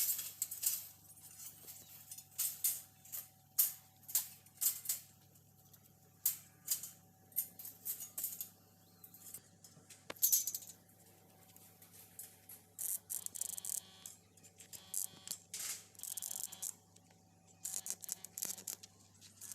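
Irregular metallic clinking and rattling, sharp short knocks and brief clattery runs scattered through, over a faint steady hum.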